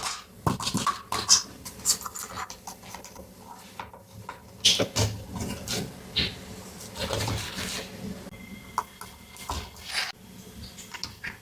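Hands unboxing and handling a plastic toy playset: irregular taps, clicks and short rustles of plastic pieces and packaging.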